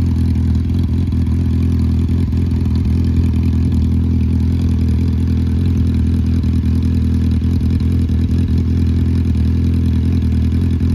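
Suzuki Bandit 1250's inline-four engine idling steadily.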